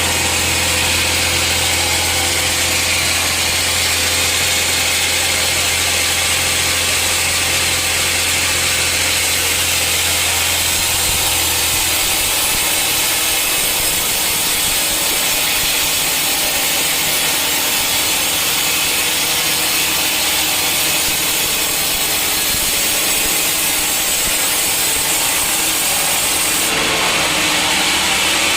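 Sawmill saw cutting steadily through a hard teak stump, a loud continuous cutting noise. A low hum beneath it fades out about twelve seconds in.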